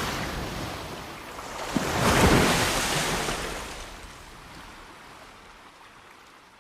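Ocean water sound: a wave surges up about two seconds in and washes away, fading toward the end.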